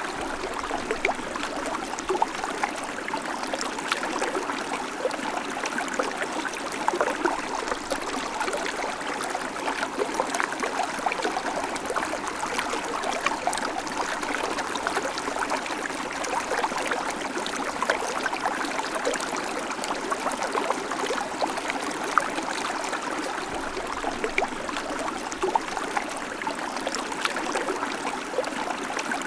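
Babbling creek: shallow water running and splashing over stones in a steady, dense patter of small gurgles.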